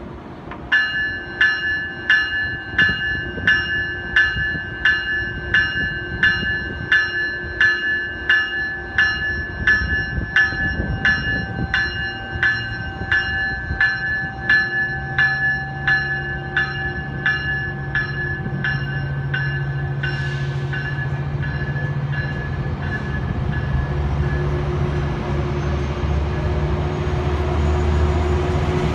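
Metrolink commuter train passing. Its bell rings steadily at a little under two strikes a second and fades out about twenty seconds in, over the rumble of the rolling bilevel coaches. Near the end the diesel locomotive's low engine drone grows louder as it comes by.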